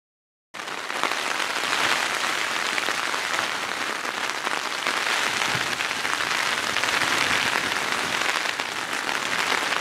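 Rain falling on a canvas tipi tent, heard from inside: a dense, steady patter that starts about half a second in.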